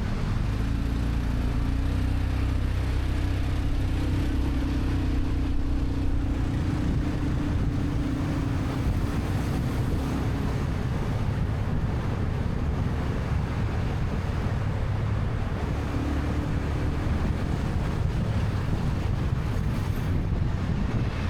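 Motorcycle taxi riding through city traffic: engine running under a steady rush of wind on the microphone. A low engine hum stands out for the first half and again briefly near the end.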